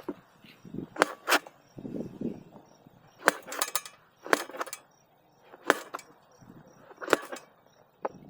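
Kitchen knife chopping food on a cutting board, seven or eight sharp, irregular knocks with duller thuds between.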